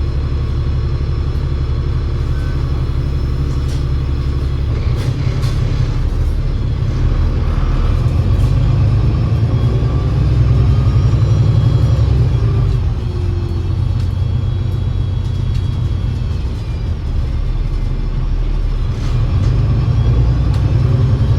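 Alexander Dennis Enviro500 MMC double-decker bus with a Voith 864.5 automatic gearbox, heard from on board: a steady low engine drone and a gearbox whine that rises and falls as the bus pulls away and gathers speed. It eases off around two-thirds of the way through, then pulls again near the end. The gearbox's usual 'airplane' whine is toned down.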